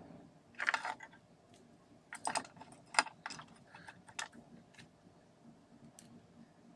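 Small hard parts of a Makita ML807 lantern work light handled during repair: an irregular series of sharp clicks and light knocks, loudest about a second in and again between two and three seconds in, then a few fainter ones.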